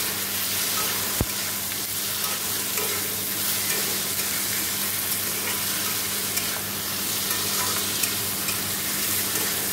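Potato wedges, tomato and spices sizzling in hot oil in a kadai while a metal spatula stirs and scrapes them around the pan, with one sharp knock about a second in.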